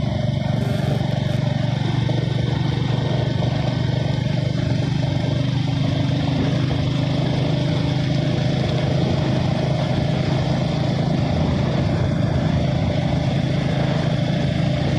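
Motorcycle engine running at a steady pace while riding, a constant low hum with an even rush of noise over it.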